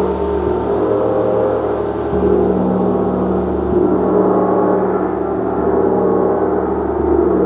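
Gong played in a sustained, dense wash of many overlapping ringing tones, swelling a little a few times as it is struck again.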